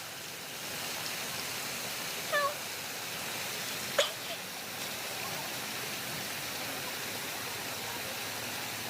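A steady hiss of aviary background, with a single short, meow-like bird call about two and a half seconds in. A sharp click follows about a second and a half later.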